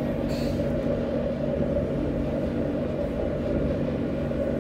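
Alstom Citadis 302 tram running between stops, heard from inside the passenger car: a steady low rumble of running gear and traction.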